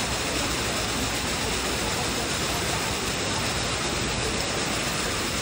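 Decorative water fountain running, its falling water making a steady, even rush.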